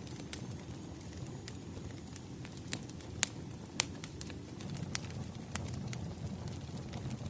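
Wood fire crackling: a steady low rumble of burning logs with irregular sharp pops and snaps, two of them louder about three and four seconds in.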